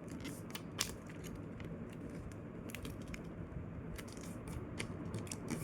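A sheet of paper being folded and creased by hand: scattered small crackles and ticks, with one sharper click a little under a second in.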